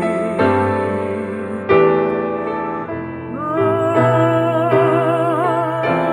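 Piano playing an instrumental passage between sung verses, chords struck every second or so. About halfway through, a long held note with wide vibrato comes in over the piano.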